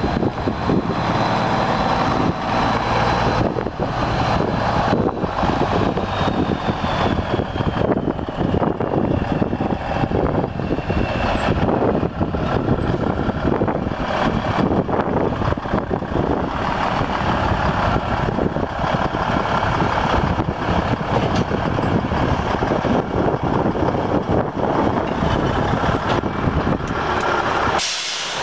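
A 1994 WhiteGMC truck's engine running steadily, with a faint high whine that drops in pitch partway through.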